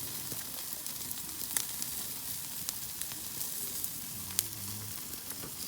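Food sizzling as it cooks over an open wood campfire: a steady hiss broken by a few sharp pops.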